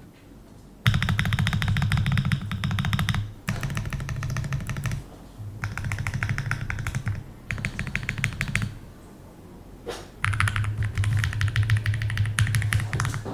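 Fast typing on a mechanical keyboard fitted with PCB-mount stabilizers, in five bursts of rapid keystrokes separated by short pauses.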